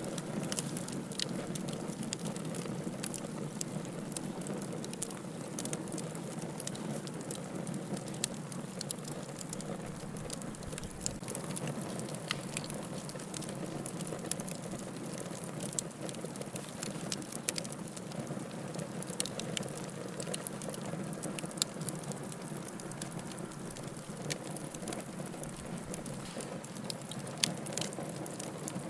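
Wood fire burning in a fireplace: a steady hiss and rush of flame with frequent small crackles and occasional louder pops, one sharp pop near the end.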